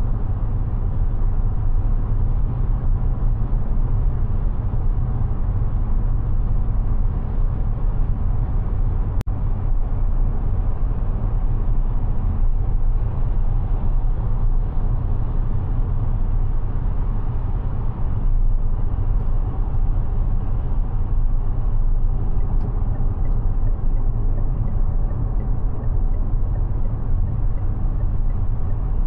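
Mazda 6e electric sedan driving along at steady speed: a constant low road and tyre rumble, with no engine note.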